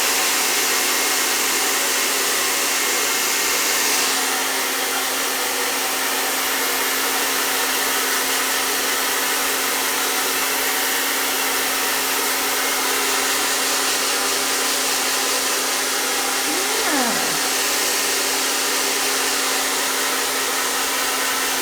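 Hair dryer blowing steadily, a whooshing rush of air over a constant hum. About three quarters of the way through, one short sound slides down in pitch above it.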